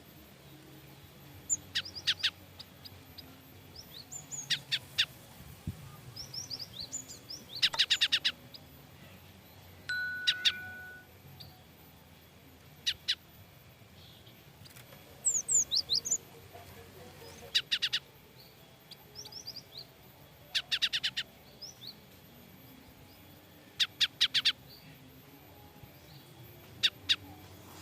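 Cinereous tit (gelatik batu) giving frightened alarm calls: short clusters of sharp, rapid, high notes that come again every two to three seconds.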